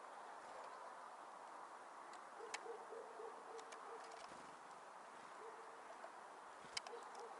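Faint bird sounds at a winter feeder: a soft, low, cooing call repeated in short pulses, and a few brief sharp high calls or clicks, the clearest about two and a half seconds in and again near the end.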